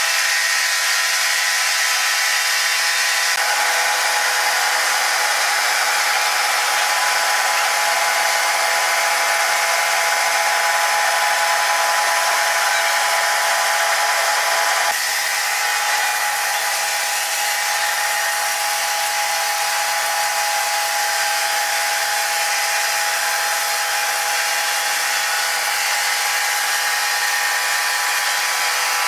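Sawmill saw running steadily, a constant whine over a hiss, changing slightly about halfway through.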